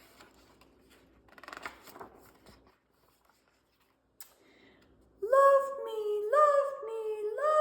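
Faint paper rustling, like a book page being turned, then from about five seconds in a woman's high voice warbles three sung notes, each sliding up and held for about a second, imitating the Love Me Bird's song.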